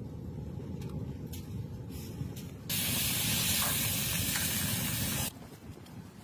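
A loud, steady hiss starts suddenly a little under three seconds in and cuts off abruptly about two and a half seconds later, over a low rumble.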